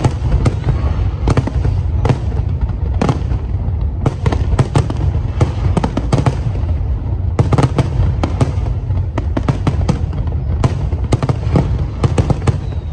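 Aerial fireworks display: a rapid, continuous barrage of bangs and crackling bursts over a steady low rumble. The bursts come thickest in the middle.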